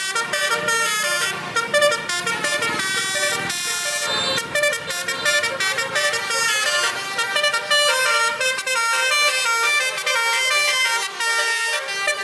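Truck's basuri musical horn playing a tune: a quick run of changing horn notes.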